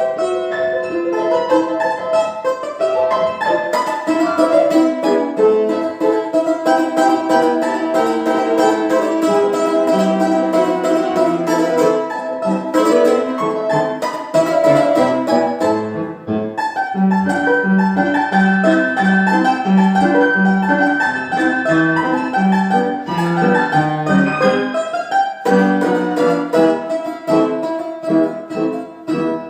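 A plucked string instrument playing a melody over piano accompaniment. From about halfway through, the piano repeats low notes in an even rhythm.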